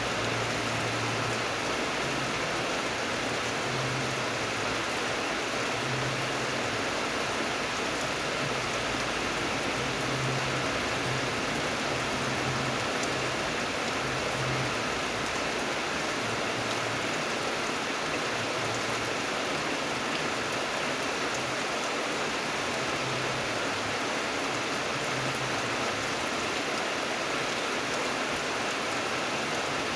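Steady rainfall, an even hiss of rain falling on surfaces, unchanging throughout.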